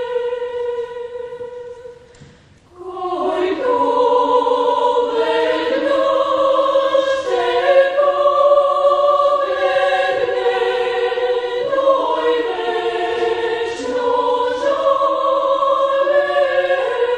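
Children's choir singing a Bulgarian folk song in several-part harmony. A held note fades out about two seconds in, and after a brief break the choir comes back in with several voice parts moving together.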